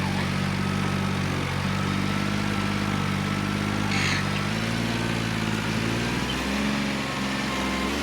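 John Deere 5210 tractor's three-cylinder diesel engine running steadily, its note shifting slightly about six and a half seconds in.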